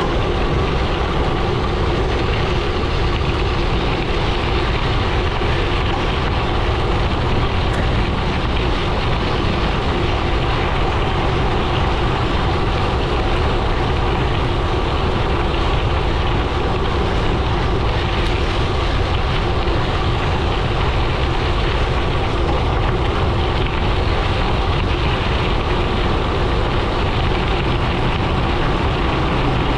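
Gravel bike tyres rolling on a gravel road with a steady crunching rumble, mixed with wind buffeting the microphone.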